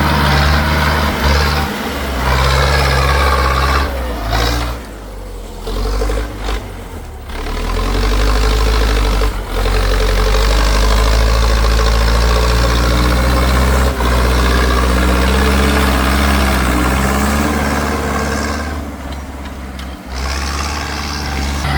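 Tractor engine running hard, easing off twice and then pulling loud and steady again.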